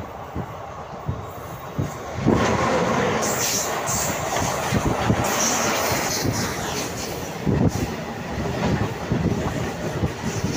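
Wheels of a moving passenger train clattering over the rail joints. About two seconds in, a goods train of tarpaulin-covered open wagons passing close alongside on the next track comes in loudly, a steady rush of noise with its wagons rattling.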